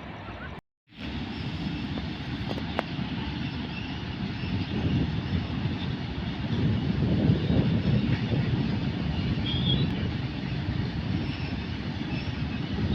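An electric-hauled train running past at speed with a dense, low, continuous rumble that swells to its loudest about halfway through. The sound cuts out completely for a moment about a second in.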